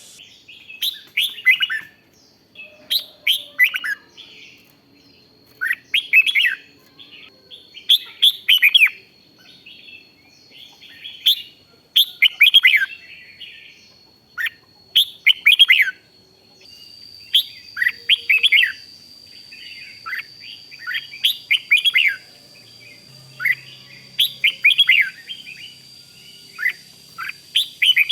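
Red-whiskered bulbul singing short, quick warbled phrases, one every couple of seconds. A faint steady high whine runs underneath and steps slightly higher about halfway through.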